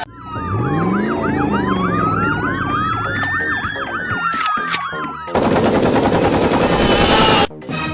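Several police-style sirens sounding over one another, wailing up and down and yelping fast. About five seconds in they give way to a loud, rapid rattling noise that cuts off suddenly near the end.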